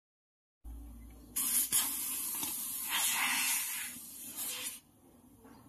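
Pressurized gas hissing out of a refrigerator's low-pressure line at the gauge connection for about three and a half seconds, then stopping. The pressure falls to zero at once, a sign that the tubing is not blocked by a weld at this point.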